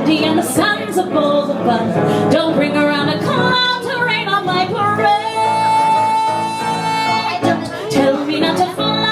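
A woman singing a Broadway show tune in a belting voice over instrumental accompaniment, holding one long note in the middle.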